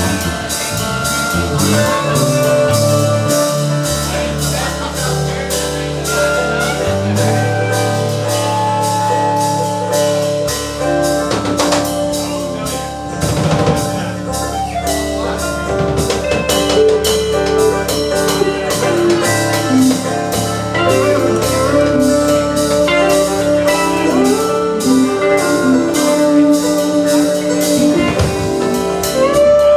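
Live country band playing an instrumental passage: a drum kit keeps a steady beat under bass notes, guitar and a sliding melody line.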